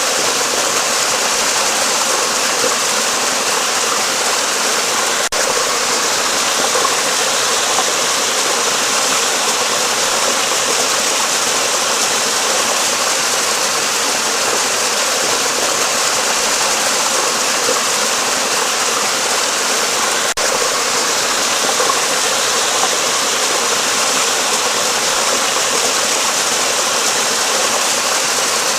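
Steady rush of flowing water, even and unbroken apart from two momentary dips, about five seconds in and again about twenty seconds in.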